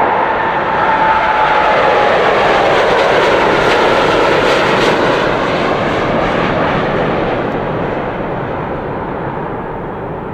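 Jet airliner's engines at take-off power as it passes: a whine that slides slightly down in pitch in the first two seconds over a loud, broad roar, which then slowly fades.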